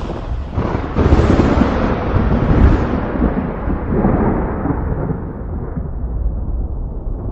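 Rolling thunder: a rumble swells about a second in, then its high end fades away over several seconds, leaving a low drawn-out roll.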